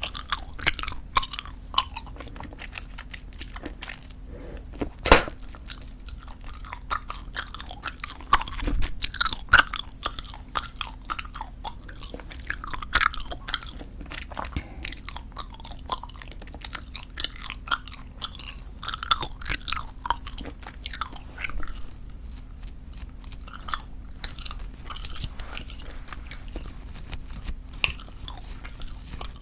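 Close-miked gum chewing: a steady run of wet smacks and clicks from soft tube gum being worked in the mouth, with one sharp snap about five seconds in.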